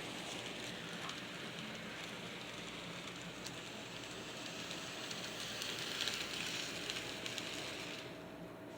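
Model train running on the layout track: a steady, faint hissing rattle of wheels and motor with a few light clicks, dropping away about eight seconds in.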